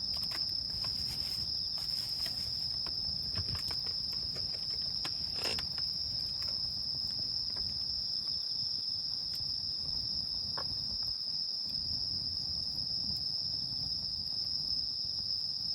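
Steady, high-pitched chorus of crickets at night, with scattered faint crackles from a wood campfire.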